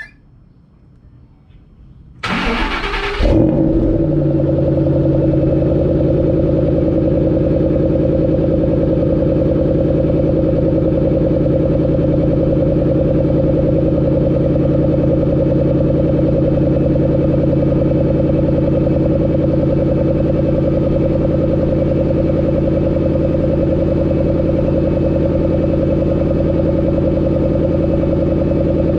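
Stock exhaust of a 2012 Ford Mustang GT500's supercharged 5.4-litre V8 starting up. There is a click, then the starter cranks for about a second, and the engine catches and settles into a loud, steady idle.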